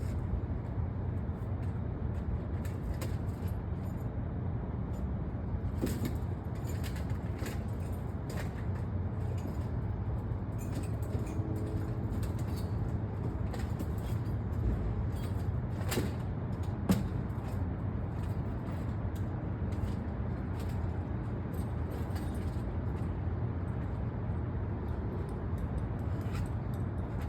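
Car engine running steadily through its newly changed exhaust, a continuous low drone, with a few light clicks and one sharper knock about two-thirds of the way through.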